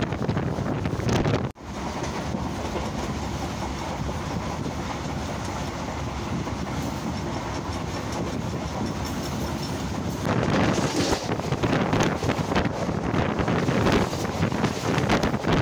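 Passenger train coaches running at speed, heard at an open carriage door: a steady rush of wheels on the rails and wind. It cuts out sharply for an instant about a second and a half in, and grows louder again from about ten seconds in.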